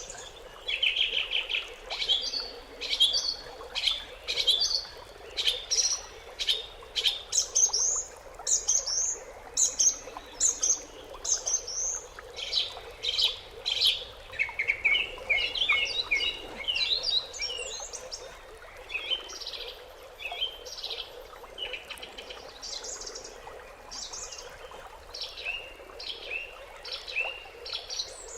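Songbirds chirping and singing: a steady stream of short, high chirps and song phrases, busiest in a fast twittering run about halfway through.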